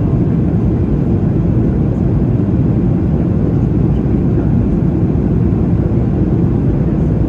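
Steady, loud cabin rumble inside a Boeing 737-800 rolling on the ground just after landing, from its jet engines and wheels.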